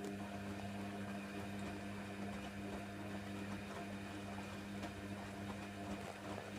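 Hoover Nextra HNWL7146 washer dryer's drain pump humming steadily, a constant electric hum with a faint watery rush behind it.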